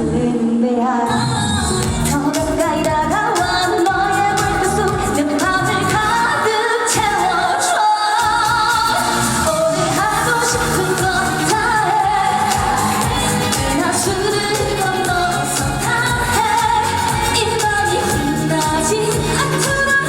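A woman singing a trot song live over a full band backing track, with the voice carrying the melody.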